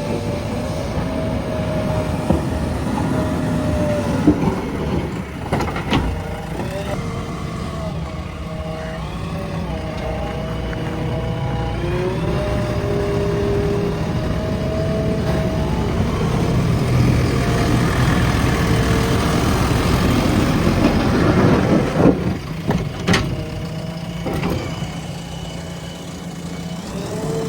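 JCB 3DX backhoe loader's diesel engine running under working load, with a whine that rises and falls in pitch as the hydraulics work, and a few sharp knocks.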